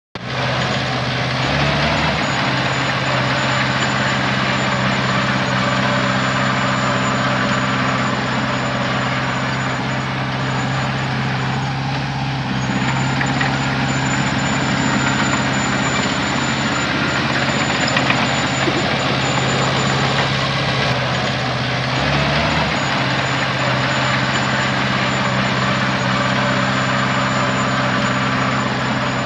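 Heavy diesel engine of earthmoving machinery running steadily at constant speed, with a thin high whine above it. The engine note shifts briefly about two seconds in and again a little past the twenty-second mark.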